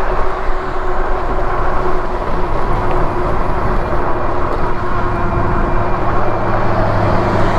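Steady wind and road noise while riding an e-bike, with a low hum that comes in more strongly about five seconds in.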